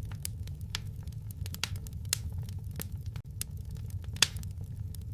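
Wood fire in a fireplace crackling, with irregular sharp pops and snaps over a low steady rumble; one loud pop about four seconds in.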